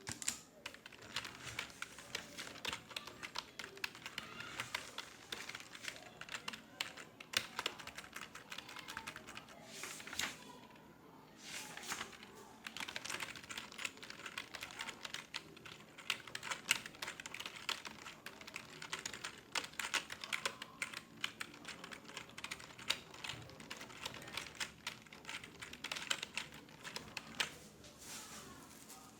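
Fast, continuous typing on a computer keyboard, a dense run of key clicks with a brief pause about eleven seconds in.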